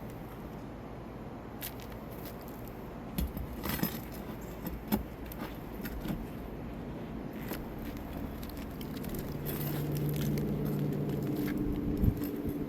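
Scattered metallic clinks and scrapes of hand tools working rusted roofing nails out of an asphalt shingle. From a little past the middle an engine hum comes in and slowly grows louder.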